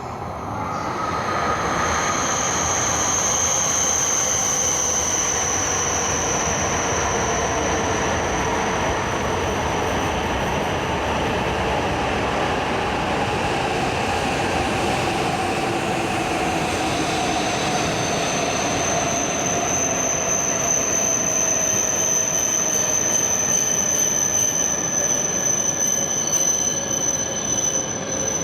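Shinkansen train running slowly alongside the platform with a steady high wheel squeal and a whine that falls slowly in pitch throughout, the sign of the train braking as it pulls in.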